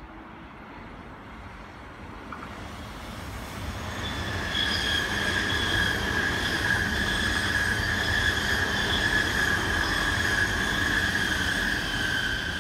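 SBB FV Dosto double-deck electric intercity train (Bombardier Twindexx) passing close by. Wheels rumble on the rails and a steady high-pitched whine sits over them. It builds up over the first few seconds, holds loud while the train goes by, and eases near the end.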